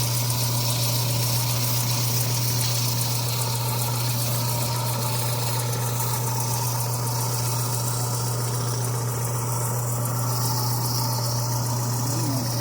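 Power tool's electric motor running steadily with a constant low hum, spinning the pedal handle while sandpaper is held against the metal.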